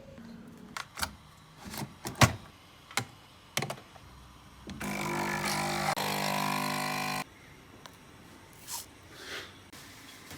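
Kitchen knocks and clicks as things are handled while making coffee, then a small electric appliance motor runs steadily for about two and a half seconds and cuts off suddenly.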